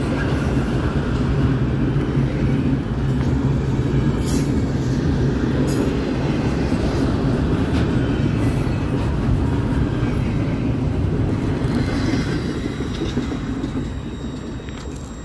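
Norfolk Southern double-stack intermodal container cars rolling past close by, a steady rumble of steel wheels on rail. It fades over the last few seconds as the end of the train passes and moves away.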